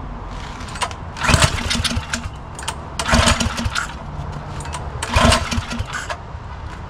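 Motovox mini bike's small single-cylinder engine being pull-started three times, about two seconds apart. Each pull is a short burst of cranking that does not catch and run: the engine won't fire, which the owner puts down to stale gas.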